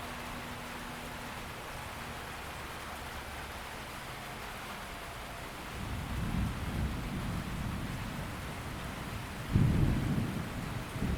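Steady heavy rain falling, with thunder rumbling in about halfway through and a louder, closer crack-and-rumble of thunder near the end.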